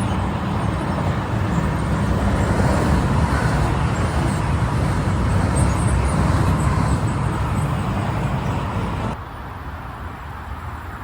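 SBB RABe 512 double-deck electric multiple unit passing close by: steady loud rumble and rolling noise of wheels on rail, which cuts off abruptly about nine seconds in to a much quieter background.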